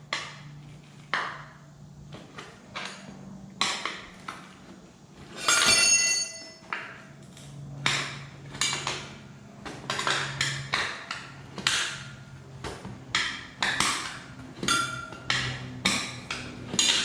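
Steel tire irons clanking and scraping against a dirt bike's wheel rim while levering the tire bead off, in irregular knocks that come faster toward the end. One loud metallic knock about five and a half seconds in rings on briefly.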